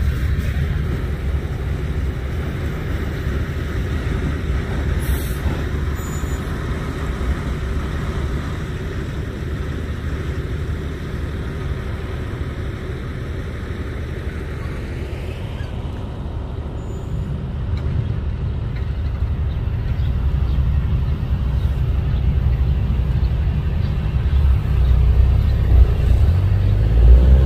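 Freight train cars rolling past with a steady low rumble of wheels on rail. The rumble grows louder in the second half, with a few heavier thumps near the end.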